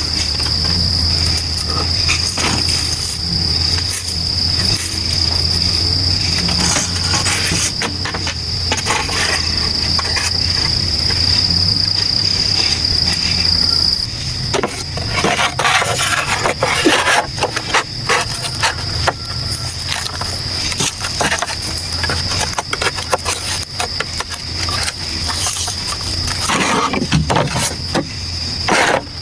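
Insects calling in a steady high drone, with a low hum that stops about halfway through. From about halfway, irregular clicks and knocks join in.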